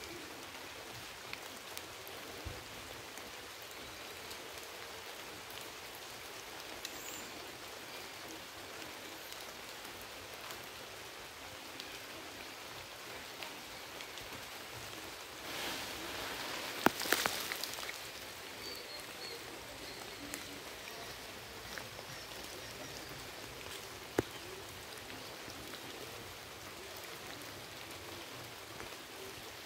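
Steady hiss of light rain on forest leaves. About halfway through there is a louder burst of rustling with a few sharp clicks in it, and one more click comes later.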